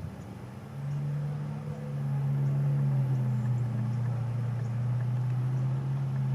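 A steady low engine drone that gets louder about a second in and again about two seconds in, then holds level.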